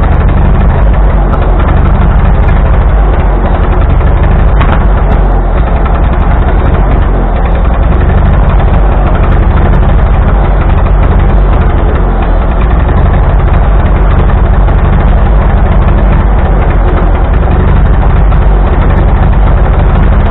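1945 Ford 2N tractor's four-cylinder flathead engine running steadily and loudly, just fitted with new points and a new carburetor.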